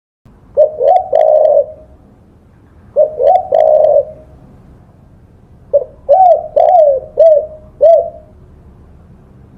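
Spotted dove (tekukur) cooing: three phrases of low, pitched coos, the first two short and the third a longer run of five or six notes, each dropping in pitch at its end.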